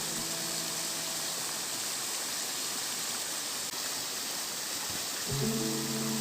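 Steady rushing of a waterfall, an even wash of water noise. Background music trails off at the start and comes back in near the end.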